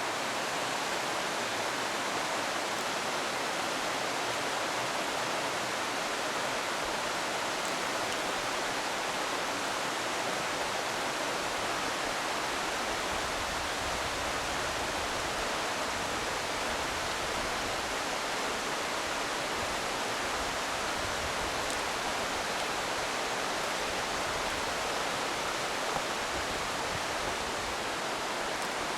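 Rushing water: a steady, unbroken hiss.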